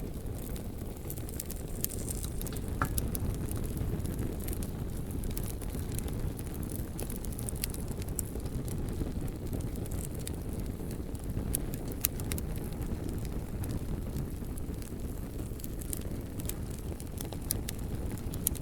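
Campfire burning, with frequent short sharp crackles and pops over a steady low rumble.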